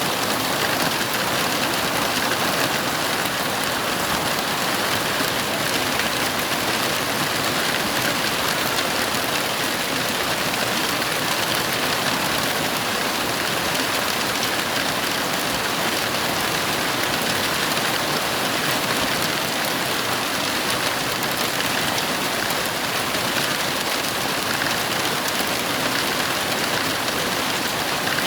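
Heavy rain falling in a steady, even hiss, with no thunder heard.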